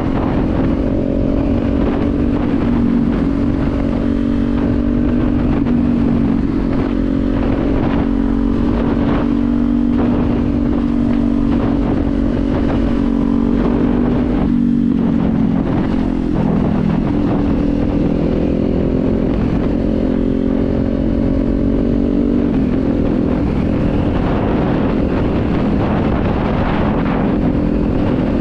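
Kawasaki Z400's parallel-twin engine running steadily at riding speed, with wind rushing past. The engine note drops about halfway through and again later, then settles.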